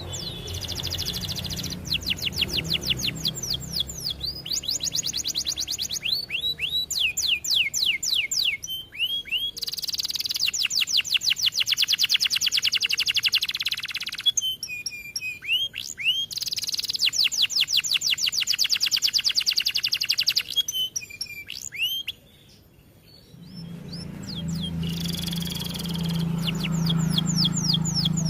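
Domestic canary singing: long trills of rapid repeated chirps, delivered in phrases of several seconds with short pauses between them, the longest pause about three-quarters of the way through.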